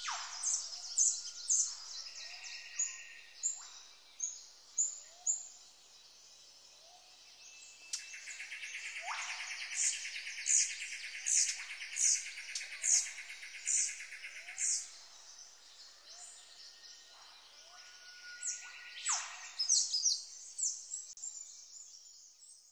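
Birds calling in a natural soundscape: a string of sharp, high, downward-sweeping chirps, with a buzzy trill for several seconds in the middle, fading out near the end.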